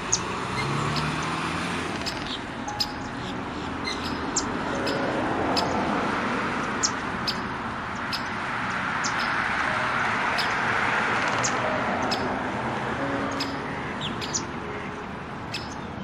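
Small birds chirping: many short, high chirps scattered throughout over a steady background hiss.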